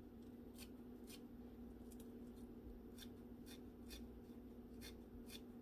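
Kitchen scissors snipping green onions, a series of faint, sharp snips at an uneven pace, about one every half second to second, over a steady low hum.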